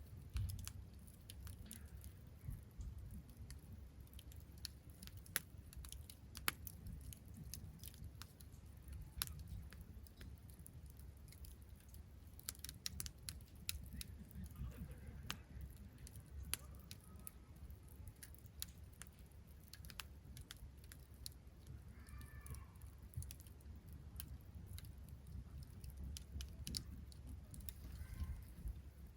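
Wood campfire crackling, with frequent sharp pops and snaps over a low steady rumble.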